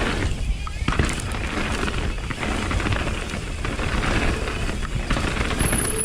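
Mountain bike rolling over a dirt trail: a steady rumble of tyres and rattling bike parts, with a sharp knock about a second in.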